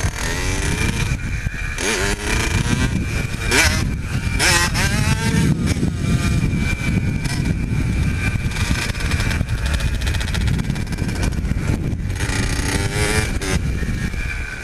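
Pit bike engine running, revving up and falling back several times between about two and five seconds in, and again near the end.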